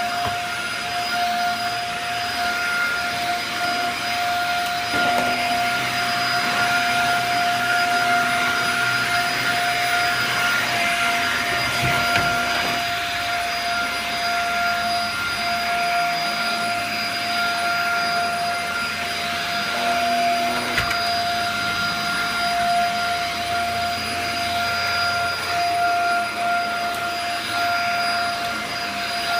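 Dyson DC50 compact upright vacuum cleaner running while vacuuming: a steady high whine over a rushing hiss. A few light knocks come through partway along.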